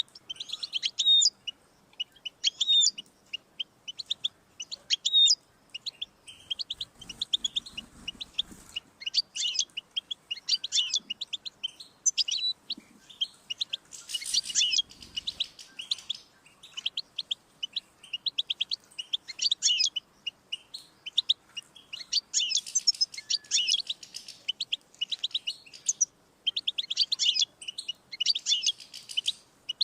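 European goldfinch singing: phrase after phrase of rapid, high, twittering and trilling notes, broken by brief pauses.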